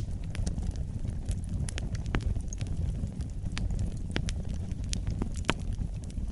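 Wood fire burning in a fireplace: a low steady rumble of flames with irregular sharp crackles and pops throughout, the loudest pop about five and a half seconds in.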